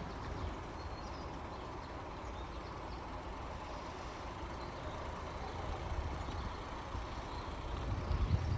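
Low, steady rumble of road vehicles, swelling a little near the end.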